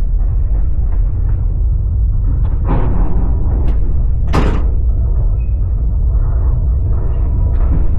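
Passenger train carriage running, a steady low rumble of the wheels on the rails. Two sharp bangs cut through it, one about three seconds in and a louder one about four and a half seconds in.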